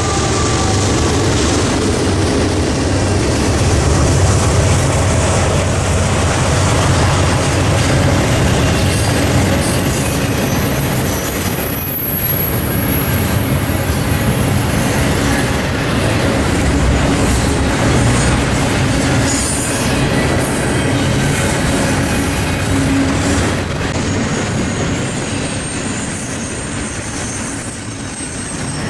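Freight train rolling past, a steady rumble of cars and wheels on the rail, with a thin high wheel squeal about ten to thirteen seconds in. It eases off a little near the end.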